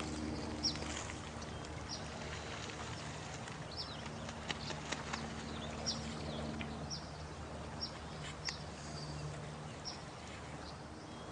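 Night nature ambience: short, high, falling bird chirps, about ten of them at irregular intervals, over a steady hiss of running water and a low steady drone.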